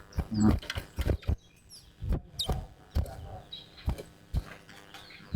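Caged chestnut-bellied seed finch (towa-towa) giving scattered short song notes, mixed with repeated sharp clicks and knocks and a brief voice near the start.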